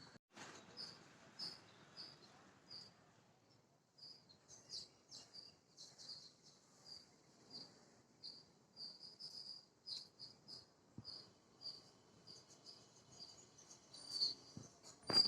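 A small bird chirping: short, high, faint chirps repeated about two or three a second, stopping for a moment a few seconds in before carrying on.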